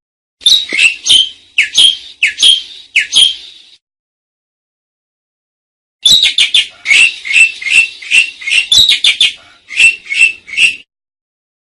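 Asian pied starling (jalak suren) singing: two runs of quick, sharp, high whistled and chattering notes, the first about three seconds long, the second about five, with a silent gap of about two seconds between them.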